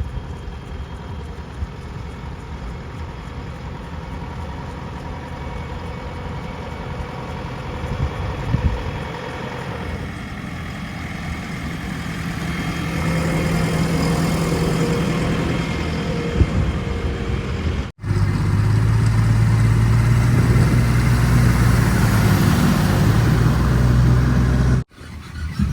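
Heavy diesel engine of earth-moving machinery running, growing louder from about halfway through. The sound breaks off abruptly twice near the end.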